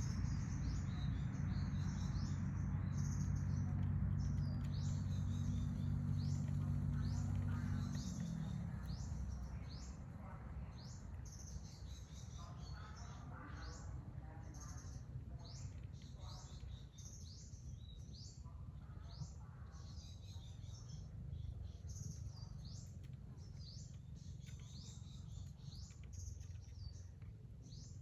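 Small birds chirping: short, high, repeated chirps, one or two a second. For the first eight seconds a low steady hum runs beneath them, then fades out.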